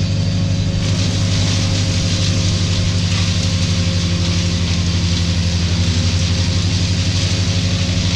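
A large engine running steadily at idle, with a low, fast, even pulse and a hiss above it.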